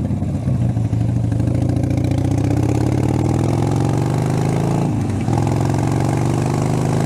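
Harley-Davidson Sportster's V-twin engine pulling under way, its pitch rising steadily, with a brief dip about five seconds in as it shifts gear before rising again.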